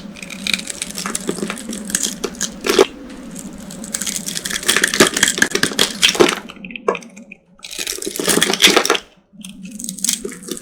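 Dry soap boxes coated in corn starch being crushed, a dense run of crisp crunching and crackling with short breaks about halfway through and again about nine seconds in.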